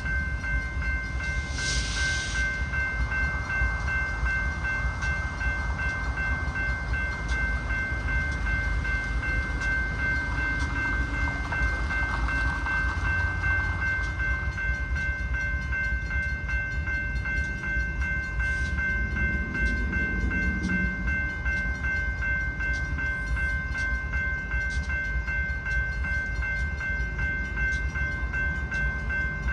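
Safetran grade-crossing bell ringing steadily over the low rumble of a freight train, with a brief hiss about two seconds in.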